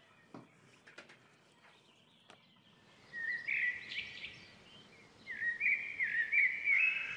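A songbird chirping and warbling in two loud phrases, the first about three seconds in and the second near the end, over a faint outdoor background. Before the birdsong there are a few faint knocks.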